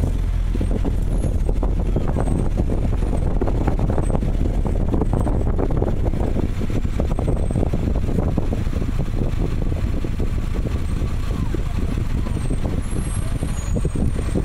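Engine of an open-top roadster running steadily at low speed, heard from inside the open cockpit, with constant low-pitched noise and irregular buffeting.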